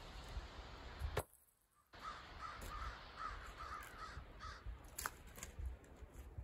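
A bird calling in a quick series of short calls for about a second and a half, from about two seconds in. There are sharp wooden knocks from split firewood pieces being handled, the loudest about a second in and another near five seconds.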